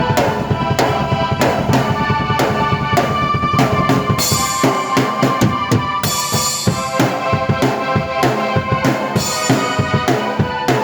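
Drum kit and keyboard played together by one player: a steady beat of kick and snare under held keyboard chords, with cymbal crashes about four and six seconds in.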